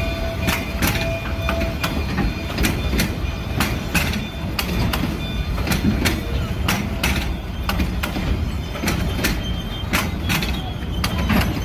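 Cumbres & Toltec narrow-gauge train rolling slowly past, its wheels clicking and clanking irregularly over the rail joints above a steady low rumble. A faint steady squeal fades out about two seconds in.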